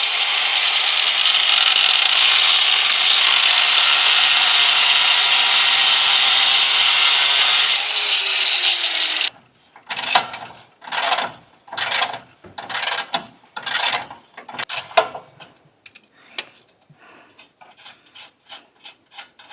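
A power tool runs steadily with a loud hiss for about nine seconds, then winds down with a falling tone. It is followed by a run of short, irregular scraping strokes and clicks.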